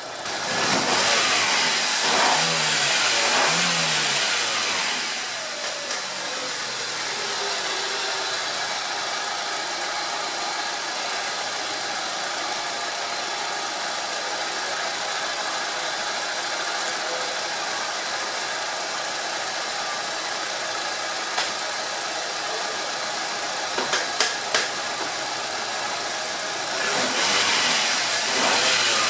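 Fiat Uno 1.4 EVO's four-cylinder engine running steadily, a little louder for a few seconds near the start and again near the end. It is run to circulate flushing water through the cooling system and warm up enough to open the thermostat.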